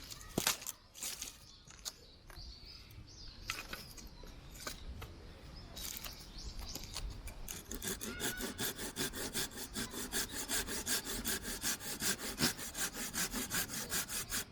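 Hand saw cutting through wood: uneven strokes at first, then a steady, quick back-and-forth rhythm of about five strokes a second through the second half.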